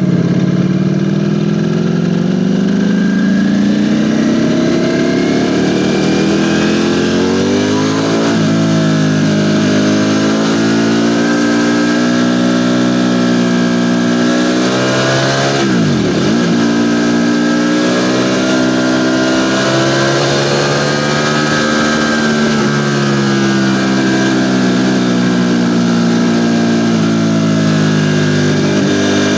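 Ducati Panigale V4 motorcycle's V4 engine under way, heard on board: the engine note climbs steadily over the first several seconds, changes pitch about eight seconds in, and about halfway drops sharply and comes straight back up before settling into a rising and falling cruise.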